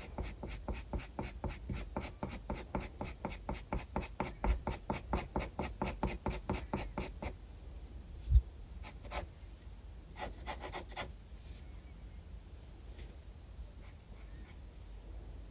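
Graphite pencil strokes on sketchbook paper: quick back-and-forth shading at about five or six strokes a second for roughly seven seconds. Then a single dull thump, followed by a short flurry of strokes and a few light scratches.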